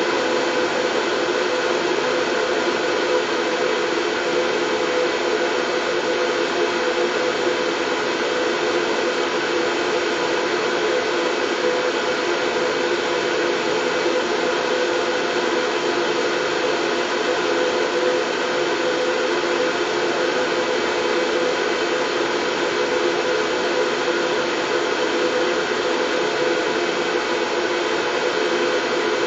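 Steady white noise for lulling a baby to sleep: an even, unchanging whoosh with a steady hum in the lower middle.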